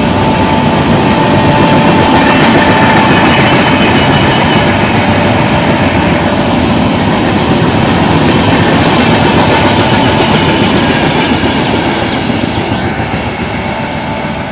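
Track sound of LHB passenger coaches passing at speed: a loud, steady rumble of wheels on rail. It dies away near the end as the last coach moves off.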